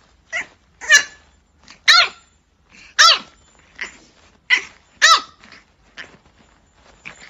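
A dog barking in a string of high-pitched yaps, about one a second, each bark falling in pitch. The barks are loudest in the first half and weaker near the end.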